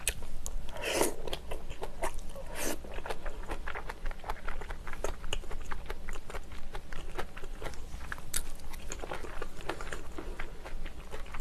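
Close-miked chewing and biting of a mouthful of braised kimchi wrapped in soft tofu: wet mouth clicks and soft crunches, with a few louder bites.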